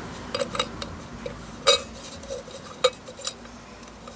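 A string of small sharp metallic clicks and clinks as a bulb is seated in a fog lamp unit and its wire spring retaining clip is worked back into place; the loudest click comes a little under two seconds in.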